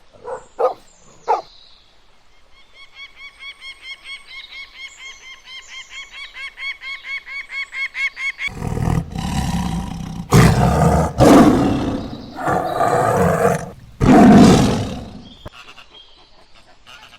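Animal calls: a rhythmic run of high chirping notes, about four a second and growing louder, then several loud, rough roaring calls from about halfway through.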